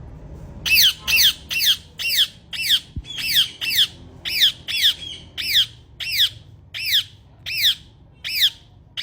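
A parrot squawking over and over, about two harsh shrieks a second, each one dropping sharply in pitch.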